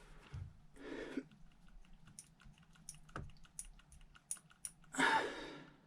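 Small hard parts being handled and fitted by hand, giving a string of light clicks and taps. There is a short scrape about a second in and a louder one near the end.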